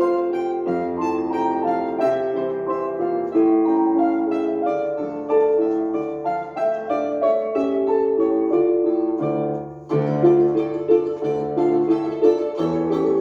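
Instrumental music played live, led by piano: a melody of separate notes, with a brief drop about ten seconds in before the playing picks up again.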